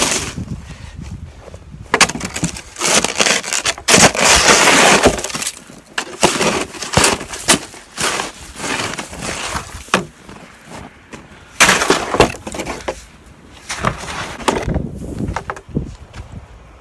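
Irregular crunching and cracking of hard, very cold packed snow, with sharp knocks scattered through and a longer loud scraping, crunching stretch about four seconds in.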